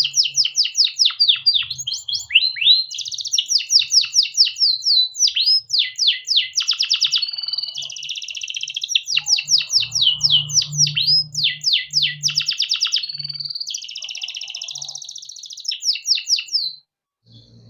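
Domestic canary singing one long, continuous song. It is made of fast trills of repeated downward-sweeping notes, alternating with held buzzy rolls. It stops abruptly about a second before the end.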